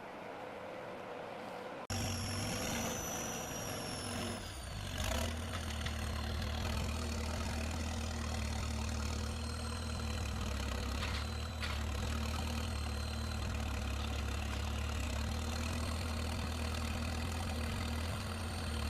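Heavy forestry machine's diesel engine running steadily, with a high whine that glides down in pitch a few seconds in and a few brief knocks. The engine starts abruptly after about two seconds of wind-like hiss.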